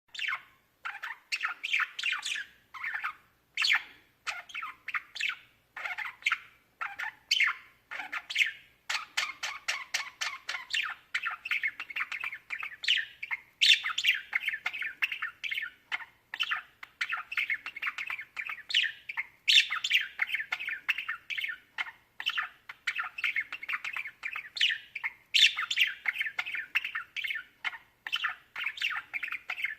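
Budgerigars chattering: a steady run of quick, short chirps, with louder squawks now and then.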